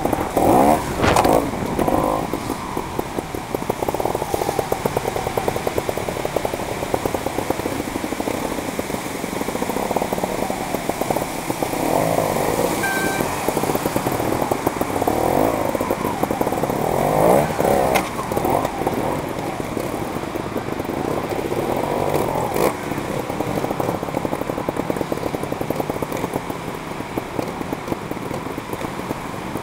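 Trials motorcycle engine running close up, its revs rising and falling again and again as the bike works over rocky ground, with a sharp click about eighteen seconds in.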